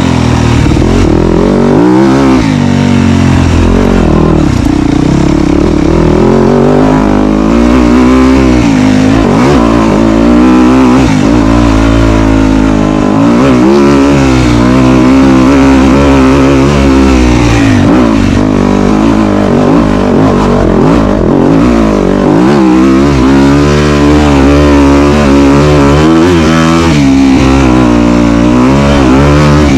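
Dirt bike engine being ridden hard, its pitch climbing and falling again and again with throttle and gear changes. Loud and close.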